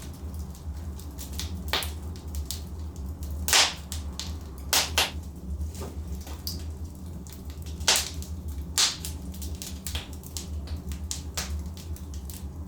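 Wood fire in a fireplace crackling: irregular sharp pops and snaps from the burning logs over a steady low rumble, with the loudest pops a few seconds in and again around eight and nine seconds.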